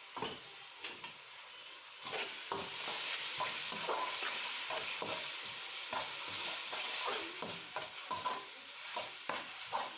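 Sliced onions with ginger-garlic paste frying in hot oil, sizzling, while a spatula stirs and scrapes against the pan with frequent clicks and knocks. The sizzle gets louder about two seconds in.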